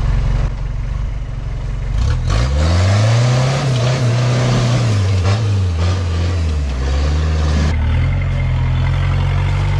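Off-road 4x4 truck's engine revved hard under load about two seconds in, held high for a few seconds, then falling back and settling to a steady lower note near the end.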